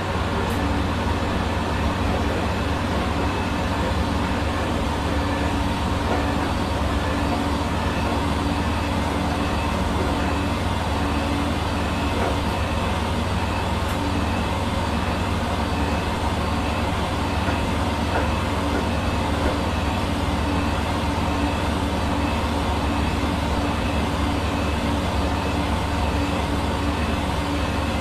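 Hair dryer running continuously: a steady motor hum under the even rush of blown air, with no change in speed or pitch.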